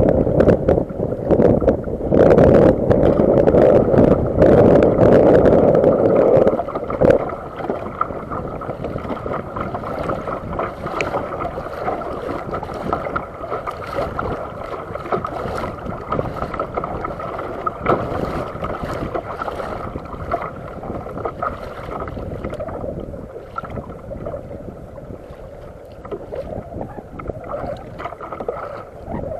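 Water sloshing and splashing against a fishing kayak's hull. Wind buffets the microphone loudly for the first six or seven seconds, then drops to a quieter run of small splashes and knocks.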